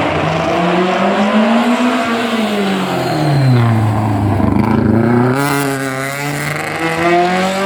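A historic rally car's engine at full revs, with the pitch climbing, then falling slowly through the middle as the car slows, then rising again as it accelerates.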